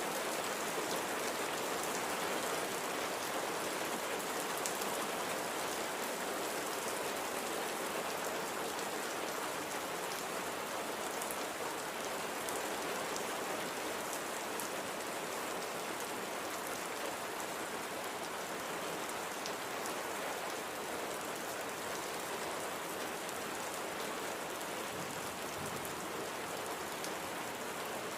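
Steady light rain falling: an even hiss with scattered ticks of single drops striking a surface.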